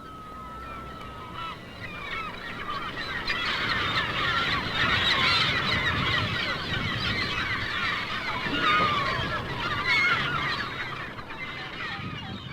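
A large flock of birds calling all at once, a dense clamour of many overlapping calls that builds over the first few seconds and thins out near the end.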